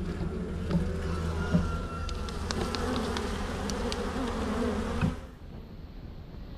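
Honeybees buzzing in a steady hum around an open hive, with a few light clicks and knocks. The buzzing cuts off abruptly after a knock about five seconds in.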